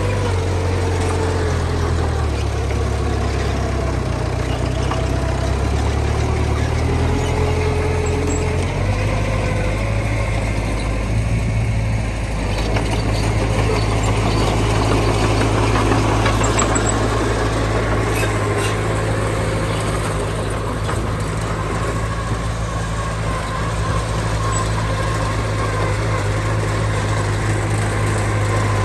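Heavy diesel engine of earthmoving machinery running steadily. Its low hum shifts about nine seconds in, and a faint wavering whine sits above it.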